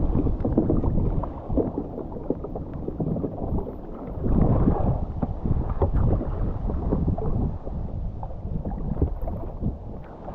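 Whitewater kayak on a river: water rushing and splashing unevenly around the hull. Close rumble from the water on the microphone.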